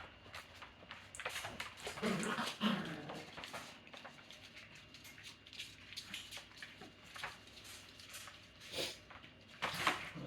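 Newfypoo puppies whimpering with a few short, brief calls, among scattered small clicks.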